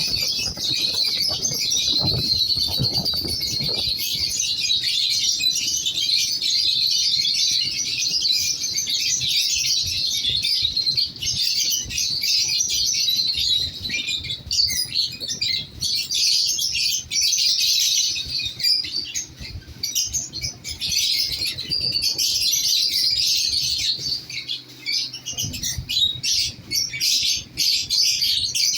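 Lovebirds chattering without a break, a dense stream of shrill, rapid chirps.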